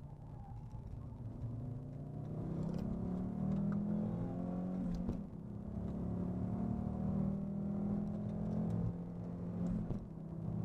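Audi Quattro rally car's engine under hard acceleration, heard from inside the cabin. Its pitch climbs steadily, and it drops briefly twice, about halfway and near the end, as the driver shifts up.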